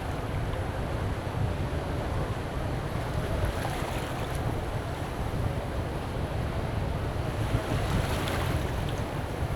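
Strong wind buffeting the microphone as a steady low rumble, over sea surf washing onto the shore. The hiss of the waves swells twice, about a third of the way in and near the end.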